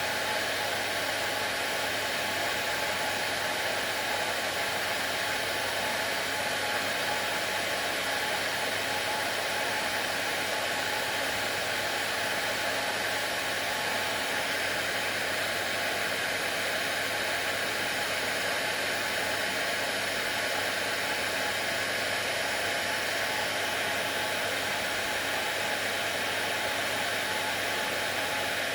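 Hair dryer running steadily, a constant even rush of blown air with a faint low hum under it and no change throughout.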